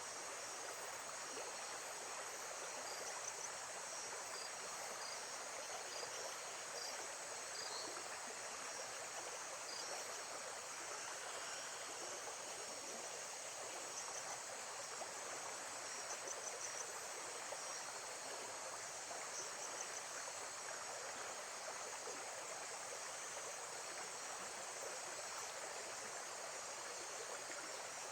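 Steady rush of running water, with faint high insect chirping over it and a few short high chirps in the first several seconds.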